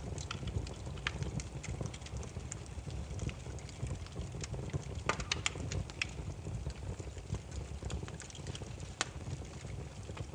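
Burning firewood crackling: irregular sharp pops and snaps, several clustered about five seconds in, over a steady low rumble of the flames.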